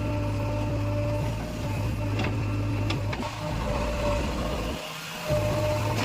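Heavy diesel engine of the loading machinery running steadily with a deep hum, and a few sharp metallic clanks from about two to three seconds in. The low hum dips out briefly near the end, then comes back.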